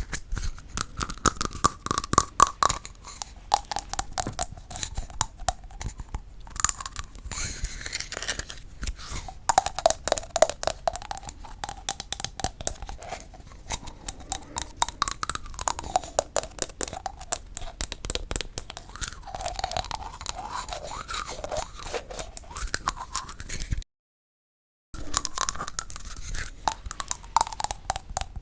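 Fast, dense tapping on wooden objects: a stream of small, quick clicks with a ringing tone that shifts in pitch as different spots are struck. It cuts to dead silence for about a second near the end, then resumes.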